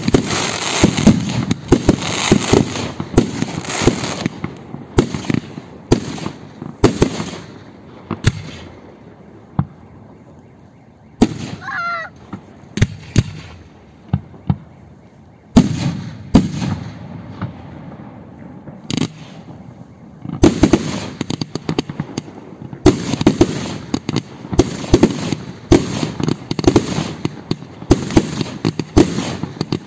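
Aerial fireworks display: rapid volleys of shell launches and bursts with crackling at the start, thinning to occasional single bangs in the middle. A brief warbling whistle comes about 12 seconds in, and dense volleys of bangs return from about 20 seconds on.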